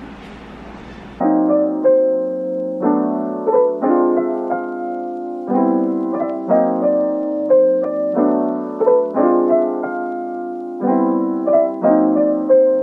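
Background piano music with a gentle, repeating pattern of chords, starting about a second in after a short stretch of low background noise.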